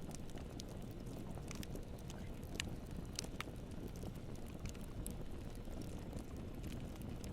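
Campfire burning: a steady low rumble of flames with scattered sharp crackles and pops, a couple of them louder about three seconds in.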